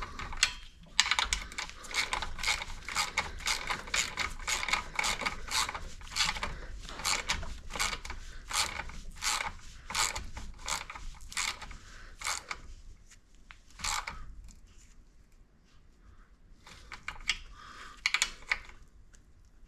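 Hand ratchet wrench clicking in quick, even strokes, about three or four clicks a second, as a nut is run down by hand rather than with an impact gun. The clicking stops about twelve seconds in, and only a few scattered clicks follow.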